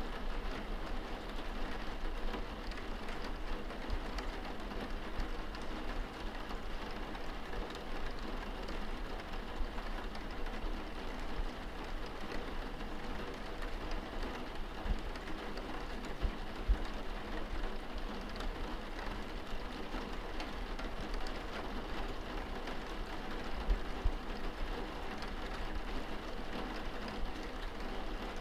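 Steady rain on window glass heard from indoors, an even patter of drops, with a few faint low thuds here and there.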